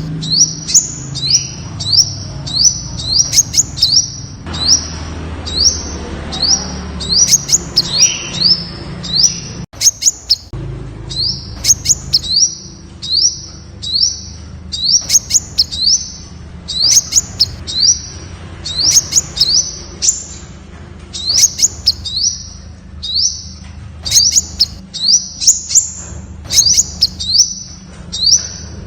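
Temminck's sunbird singing: a fast, continuous series of short, high notes, each rising in pitch, about two to three a second.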